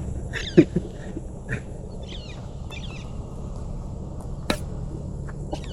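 A few short bird chirps and calls in the first half over a steady low background noise, with a single sharp click near the end.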